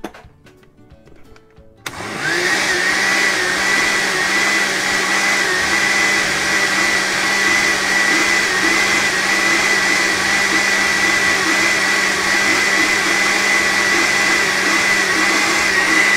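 Hamilton Beach countertop blender switched on about two seconds in, then running at a steady speed with a constant high whine as it blends a thick green pancake batter.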